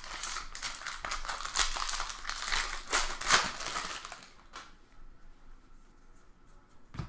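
Foil wrapper of a trading-card pack crinkling and tearing as it is opened, a dense crackle for about four and a half seconds, then quieter with a few faint clicks.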